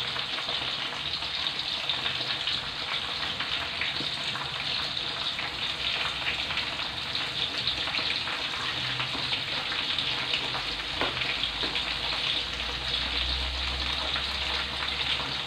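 Steady sizzling and fine crackling of chillies, shallots, garlic and tomato frying in hot oil in a pan. A low rumble joins in during the last few seconds.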